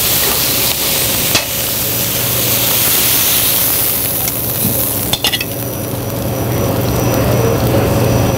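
Chicken, broccoli and pasta sizzling in a hot sauté pan as they are tossed with metal tongs. The hiss is loudest for about the first five seconds and then eases. Sharp metal clicks sound about a second in and again around five seconds, over a steady low hum.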